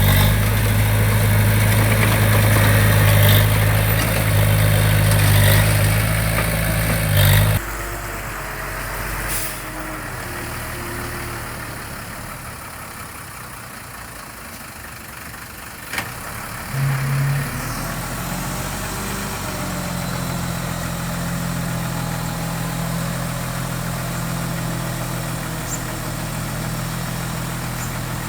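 Diesel engine of heavy construction machinery running. It is loud for the first seven seconds or so, then drops abruptly to a quieter mix; a sharp click comes near the middle, and a steady engine sound returns about two-thirds of the way in.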